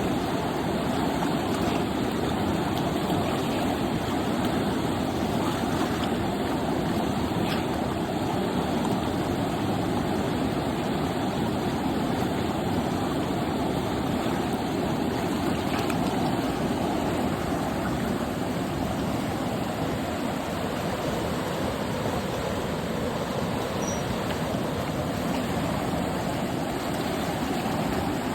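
Flowing water rushing steadily and without a break, a deep, even rush.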